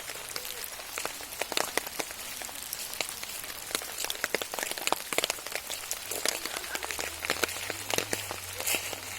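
Steady rain, with many heavy drops tapping sharply close by, irregularly and often. A low steady hum joins in about six seconds in.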